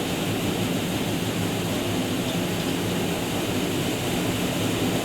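454 cubic inch big-block V8 idling steadily on an engine dyno between full-throttle pulls, with a steady rush of air over it.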